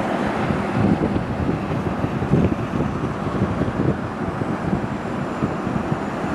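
Steady road and engine rumble of a moving vehicle, with wind buffeting the microphone; it cuts off abruptly at the end.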